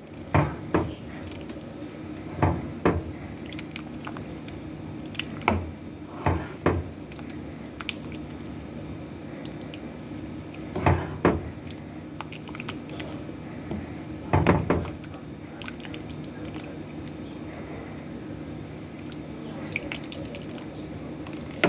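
Kitchen sounds of soup being made: a steady low hum with about ten short knocks and clatters spread through, and some liquid sounds.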